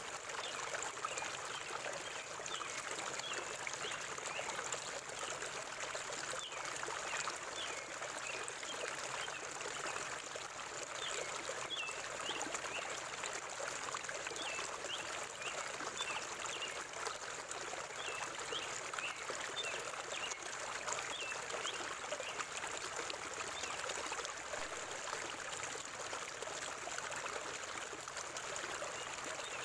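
Forest river water flowing steadily over rocks, with a constant rushing and trickling. Small birds give short, high chirps over the water for most of the first two thirds.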